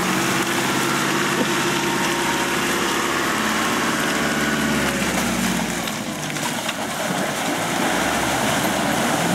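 Nissan GU Patrol 4x4's engine running steadily at low speed as it drives through deep mud, dipping slightly about six seconds in and picking up again near the end.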